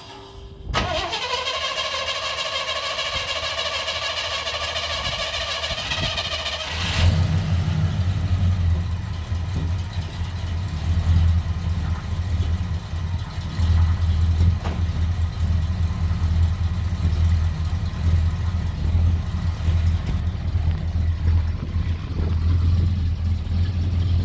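Engine being started: a starter motor whines as it cranks for about six seconds, then the engine catches and settles into a steady low idle through its new exhaust, purring. The owner thinks the idle may be set a little low.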